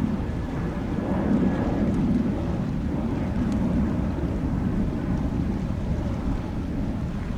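Wind buffeting the microphone over a steady low rumble, swelling and fading every second or so.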